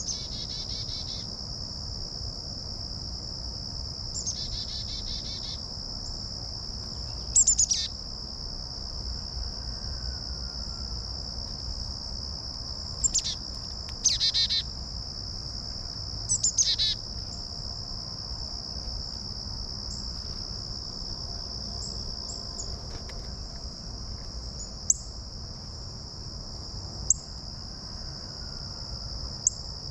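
Steady high-pitched insect trill, crickets or similar, with birds calling over it: several loud sharp notes that sweep steeply downward in pitch, some buzzy phrases, and a few short chips near the end.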